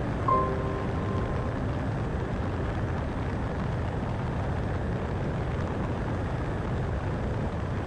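Steady road and tyre noise of a car driving on a highway, a low even rumble. The last notes of a music track fade out in the first second.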